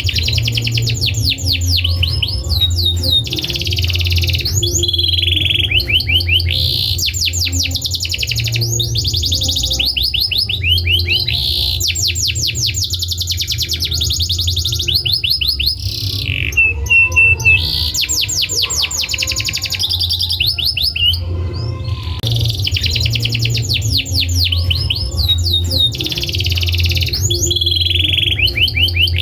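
Domestic canary singing a long, continuous song of rapid trills and rolls, fast repeated notes with only brief breaks, over a steady low hum.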